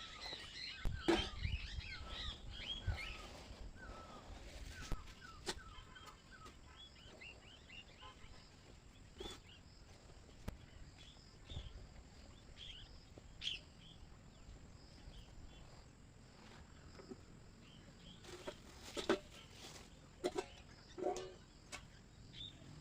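Small birds chirping in the forest, busiest in the first few seconds and again near the end, with scattered sharp clicks and snaps throughout.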